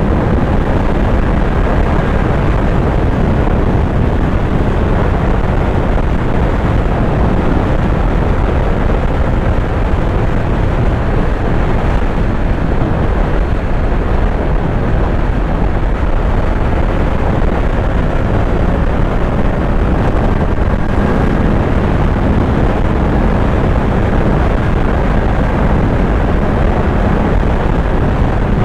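Kawasaki Z900's inline-four engine running steadily on the move, under a dense, steady rush of wind and road noise.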